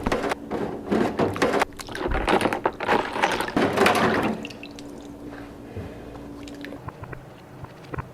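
Water pouring and splashing, loud and uneven for about four seconds, then stopping, leaving only a faint low hum.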